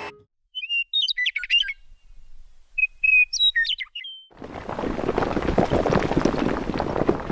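Songbird chirping in two short bursts of quick, darting high notes. From about four seconds in, a dense crackling, crumbling noise follows, like concrete cracking apart and debris falling.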